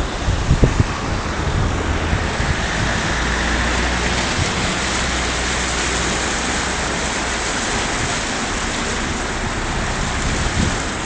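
Steady rushing of the Clare River running high in flood, with wind rumbling on the phone's microphone.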